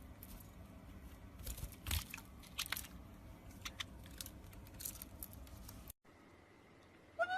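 A parrot crunching and chewing on something, with scattered sharp cracks and clicks. After a cut near the end, the start of a short whistled call rising in pitch.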